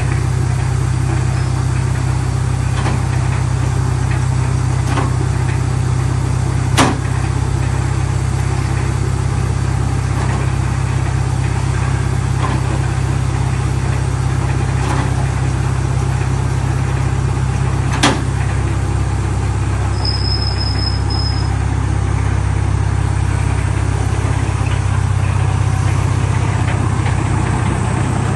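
Tractor-driven hydraulic wood chipper running steadily, a deep even machine hum, with a few sharp knocks, the loudest about a quarter of the way in and again about two-thirds in.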